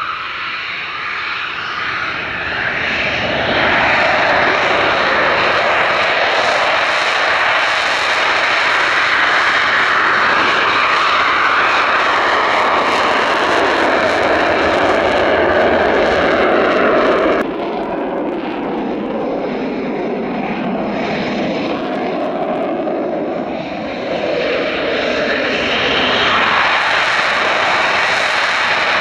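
Eurofighter Typhoon jet engines at high power on a takeoff run: a loud, dense jet noise builds about 3 to 4 seconds in and holds. About 17 seconds in it drops off suddenly, then continues with gliding tones as the jet moves away.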